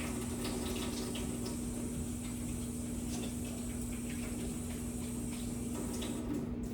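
Kitchen sink tap running with hands being washed under it, turned off about six seconds in, over a steady low hum.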